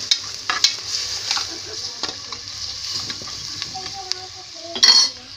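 Onions, garlic, curry leaves and pandan leaves frying in hot oil in a pressure cooker for a tempering: a steady sizzle with scattered clicks as the mixture is stirred, and a short, louder burst near the end.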